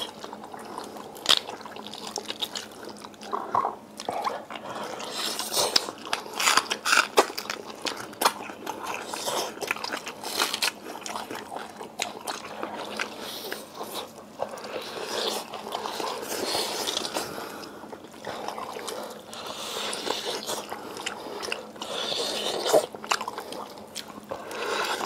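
Close-up eating sounds of red-braised pig's trotters being bitten, gnawed and chewed: wet smacking with frequent short, sharp clicks as teeth work the skin and bone.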